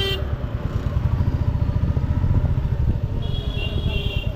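Motorcycle engine running with a fast, steady low pulse through traffic. A horn honks near the end, and another horn cuts off right at the start.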